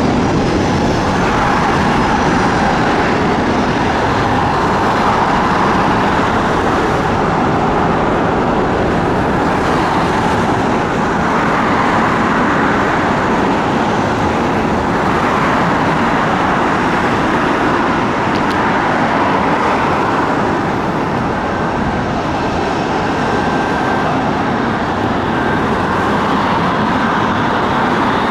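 Jet airliner engines, a loud steady roar with a faint thin whine joining in the last third.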